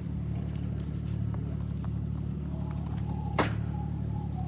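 A vehicle engine idling steadily, with one sharp click or knock about three and a half seconds in.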